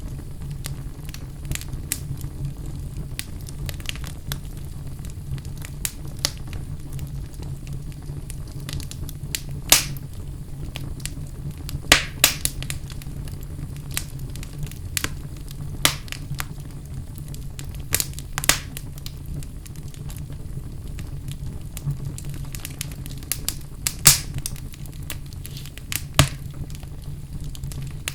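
Wood fire burning in a fireplace: a steady low rumble with irregular crackles and sharp pops, a few of them standing out loudly.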